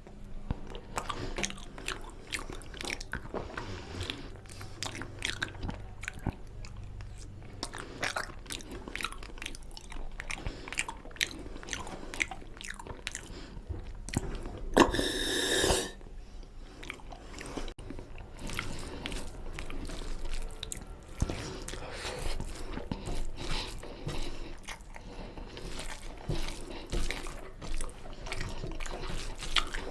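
Close-up eating sounds of mutton nalli curry with rice: steady, irregular wet chewing and biting clicks. About halfway through there is one louder, noisy burst lasting about a second.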